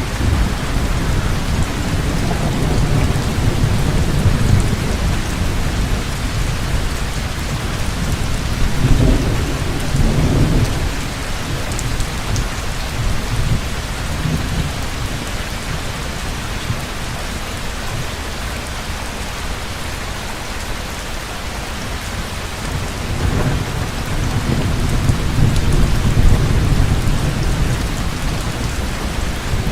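Heavy rain pouring steadily, with thunder rumbling low three times: near the start, about a third of the way in, and again near the end.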